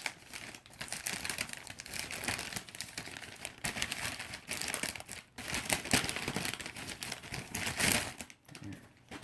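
Packaging crinkling and rustling in the hands as a boxed garage door remote is worked out of it, an irregular crackle that dies away near the end.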